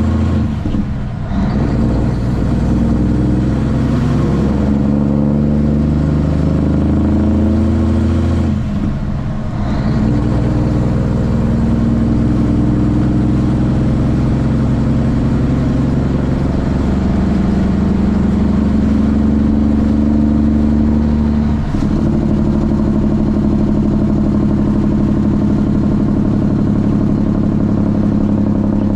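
Kenworth T800's straight-piped Cummins ISX inline-six diesel running on the road. The engine note drops out briefly about a second in and again around nine seconds in, and changes sharply a little past twenty seconds.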